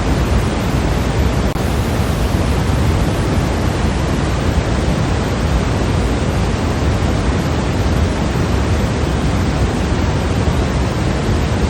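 Steady white noise for sleep, a constant even rush with no changes, weighted toward the low end.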